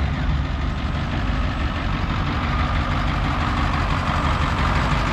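Heavy diesel truck engine idling steadily, a low, even rumble. A thin steady whine joins in about halfway through.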